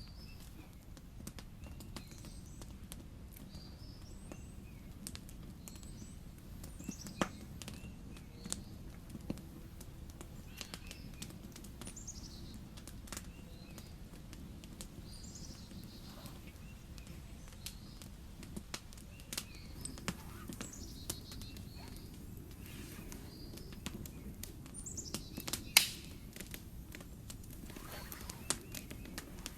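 Small birds chirping on and off, short high calls and quick falling notes, with scattered sharp clicks over a low steady background hiss; the loudest click comes near the end.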